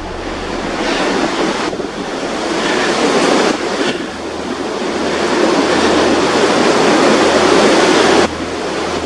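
Strong, gusty wind rushing and buffeting the microphone. It swells over several seconds and drops off abruptly near the end.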